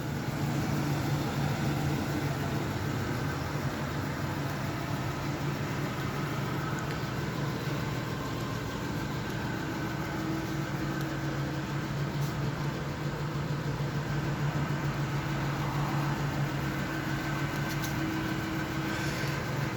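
Pickup truck engine running steadily with an even low hum, heard from inside the cab.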